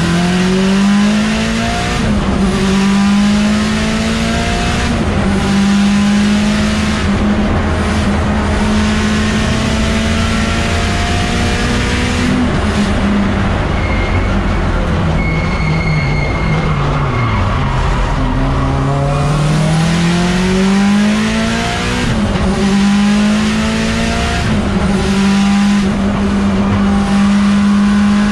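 Mitsubishi Lancer Evolution X race car's turbocharged four-cylinder engine heard from inside the cabin under hard acceleration, its pitch rising through each gear and dropping sharply at every upshift. About halfway through the pitch falls away under braking and downshifts, then climbs again through more upshifts.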